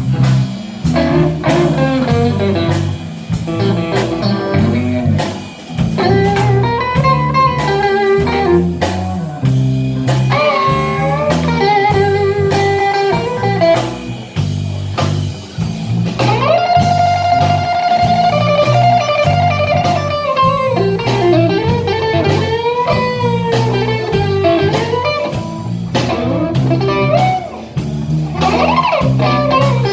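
Live blues band playing an instrumental break without vocals. A lead line of bent, gliding notes, with one long held note about halfway through, plays over a steady bass and drum groove.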